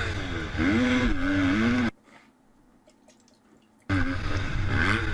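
Motocross bike engines revving up and down in race footage. The sound cuts off abruptly about two seconds in, drops to near silence for about two seconds, then the revving returns.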